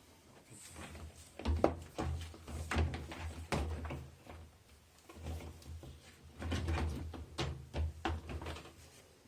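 Irregular clicks, knocks and low thuds of washing-machine parts being handled and fitted during reassembly, in two busy spells with a lull in the middle.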